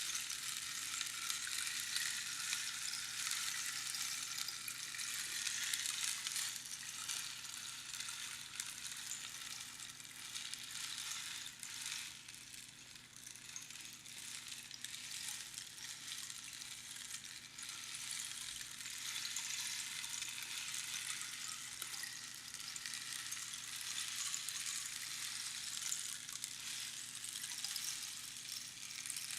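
Rainstick: small pebbles or beans trickling down through the pins inside a hollow cactus tube, making a continuous rain-like pattering hiss. The flow thins out for a moment about halfway through, then picks up again.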